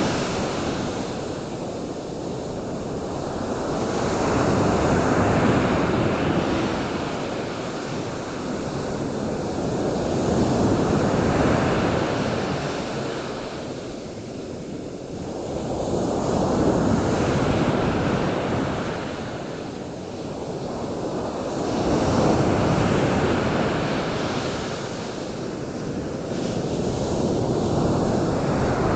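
Ocean surf: waves washing in, the rushing noise swelling and fading about every six seconds.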